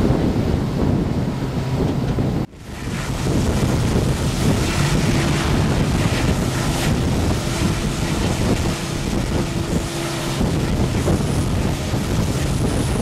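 Passenger train running at speed, heard from an open window: a steady rush of wind on the microphone over the running noise of the coaches. The sound cuts out abruptly for an instant about two and a half seconds in, then comes back.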